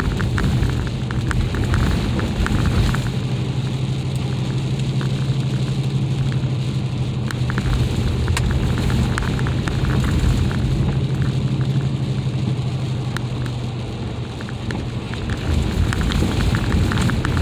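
Mercedes ML SUV driving on an icy road, heard from inside the cabin: a steady low drone of engine and tyres with constant small crackles and clicks of ice and slush under the wheels.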